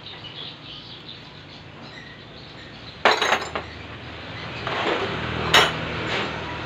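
Metal tools and engine parts clinking and clanking during engine assembly: a sharp clink about three seconds in, a few lighter knocks, then another sharp clink near the end.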